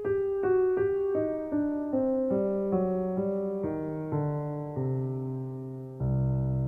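Piano music: a slow run of single notes stepping downward, each struck and left to fade, settling onto a low, held chord about six seconds in.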